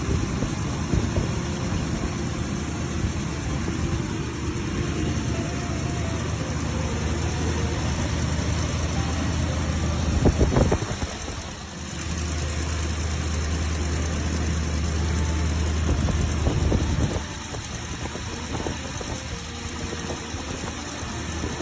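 A 1975 Mercedes-Benz 450 SL's 4.5-liter M117 V8 idling just after a cold start. There is a brief louder burst about halfway through, and the engine gets quieter a few seconds before the end.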